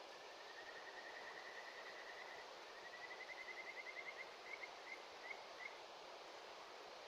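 A faint animal call: a fast trill of short high chirps that rises slightly, then breaks into a few separate notes near the end, over a steady hiss.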